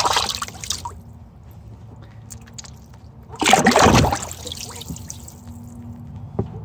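Bath water splashing and sloshing as ducklings swim in it: one splash at the start and a louder one about three and a half seconds in, with a faint steady hum between.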